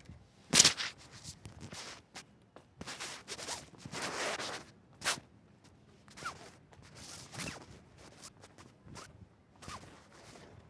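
Irregular rustling, scraping and knocking of things being handled, with a sharp crack about half a second in and a longer rustle a few seconds later.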